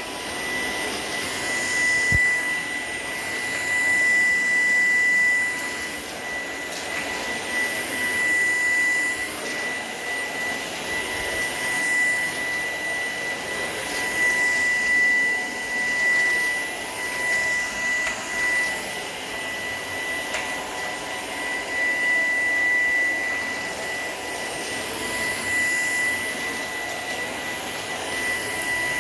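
Shark PowerDetect cordless stick vacuum running with a steady high whine over a rush of air, its loudness swelling and dropping every few seconds as it is worked over the floor.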